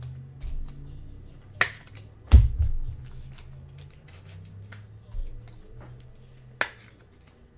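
Trading cards being handled on a table: a few sharp clicks and taps, with the loudest, a low knock, about two seconds in, over a faint low hum.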